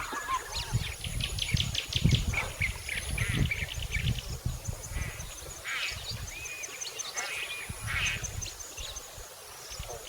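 Ducks quacking in quick runs of short calls, strongest in the first few seconds and again about six and eight seconds in. A few small chirps and a steady high-pitched buzz run beneath them.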